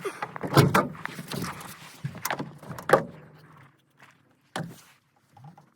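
Knocks and clatter from an old truck over its low running hum, which dies away after about three and a half seconds. A single sharp door thunk follows, about four and a half seconds in.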